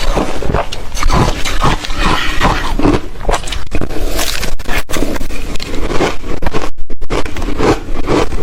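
Ice being bitten and chewed close to the microphone: loud, rapid, irregular crunching and crackling.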